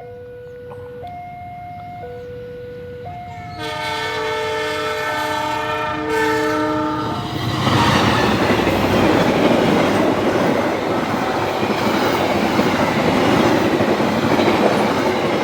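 An electronic warning signal alternates between two notes about once a second. A diesel train's multi-tone horn then sounds for about three and a half seconds. A passenger train then runs through at speed with a loud rushing rumble and wheel clatter.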